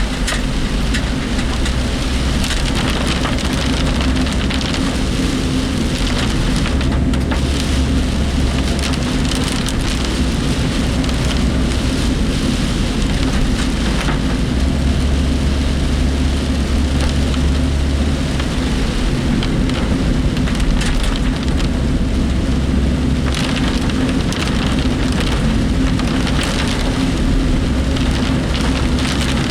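Heavy typhoon rain hitting a moving work vehicle, heard from inside the cab, over a steady low road and engine rumble.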